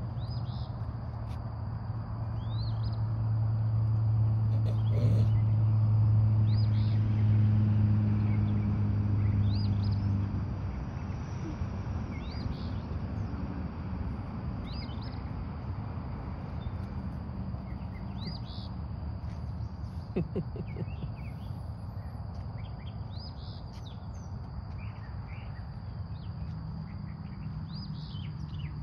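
A small bird chirping over and over, short high calls every second or two, over a steady thin high-pitched tone. A low drone is heard at the start and stops about ten seconds in.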